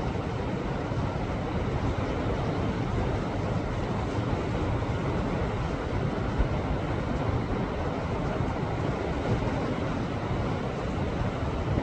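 Sea waves surging against a rocky shore, a steady low rush of surf without distinct separate crashes.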